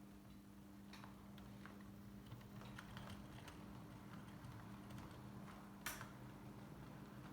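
HO-scale model locomotive running slowly on the layout track: faint, irregular clicking of wheels and track over a steady low hum, with one sharper click about six seconds in.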